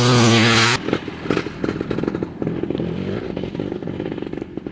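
Dirt bike engine held at a steady high rev, cut off abruptly under a second in, followed by a rapid irregular crackle that slowly fades away.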